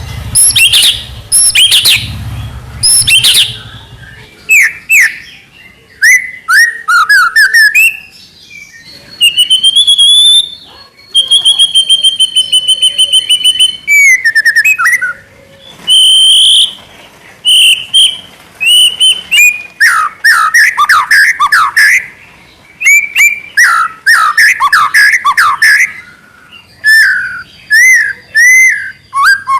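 White-rumped shama (murai batu) singing a long, loud, varied song: whistled glides, rapid repeated-note trills and chirps delivered in quick phrases with short gaps.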